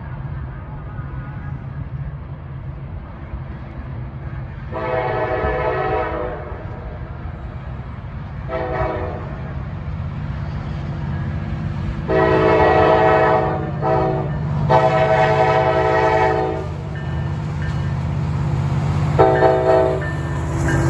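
Locomotive air horn sounding five blasts over the steady low rumble of a passing train: a long one, a short one, two long ones, then a short one near the end.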